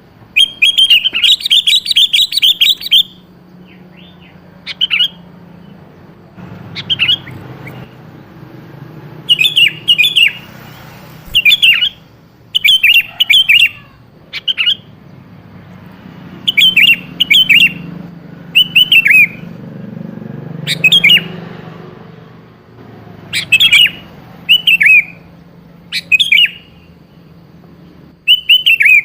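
Sooty-headed bulbul (kutilang) singing: loud, short phrases of quick, falling chirps, repeated every second or two, with a longer run of them at the start.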